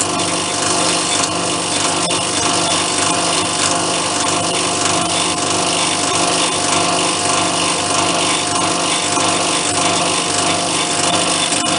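Lathe running steadily while taking a final cleaning cut on a plate being turned down level. The motor's steady hum sits under the noise of the cut.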